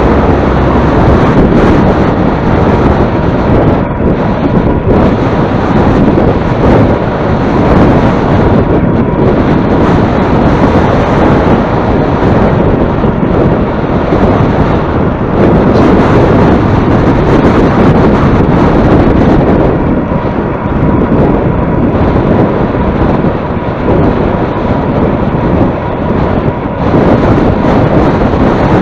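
Heavy wind buffeting the microphone while moving into a headwind: a loud, continuous low rush that swells and dips in gusts.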